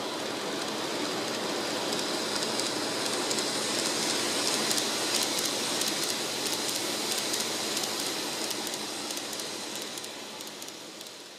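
N-gauge model train (a KiHa 81 series diesel railcar set) running along the track, its wheels and motor making a steady rolling rattle with fine clicks. It grows louder to a peak about four to five seconds in, then fades as the train passes.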